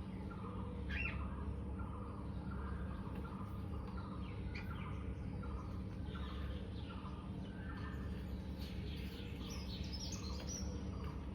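Birds chirping in short repeated calls, about two a second, with a few higher chirps over a steady low background noise.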